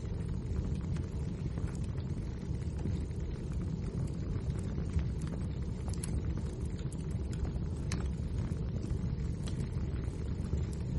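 Wood fire burning in a fireplace: a steady low rumble of the flames with scattered sharp crackles and pops, a few louder ones in the second half.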